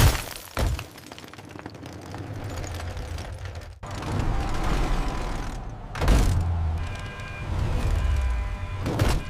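Sound effects: a sharp crash, then a low, steady rumble with further crashes about six seconds in and near the end, with music coming in over the last couple of seconds.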